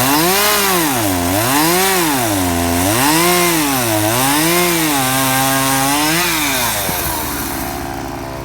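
Small two-stroke Homelite chainsaw with a 14-inch bar and full-comp chain running in a cut: the engine's pitch swings up and down over and over as the chain bites into the log and frees up again. It holds lower and steadier for a moment, then the engine note fades away near the end.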